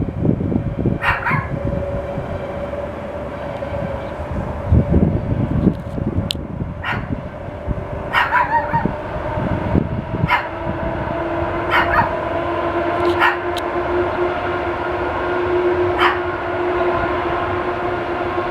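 A dog barking about six times, a few seconds apart, while an approaching train's steady hum sets in about ten seconds in and carries on under the barks.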